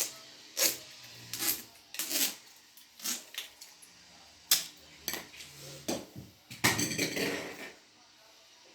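Irregular clicks, clinks and taps of small hard objects being handled, about a dozen, with a quick flurry of them about seven seconds in.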